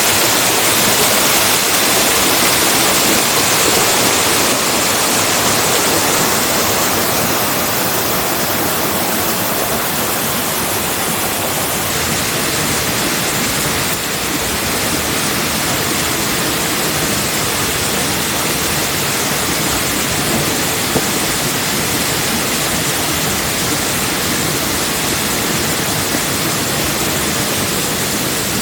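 A steady, loud rushing noise, even across low and high pitches, with no tones or rhythm.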